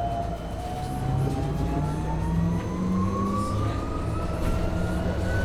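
MAN Lion's City hybrid city bus accelerating, heard from inside the bus: the hybrid drive's electric whine rises steadily in pitch over a lower engine drone.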